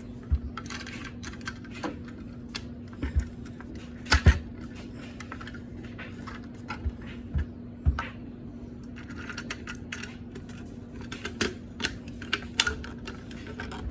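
Irregular light clicks and taps of small objects being handled, a few louder knocks among them, the loudest about four seconds in, over a faint steady hum.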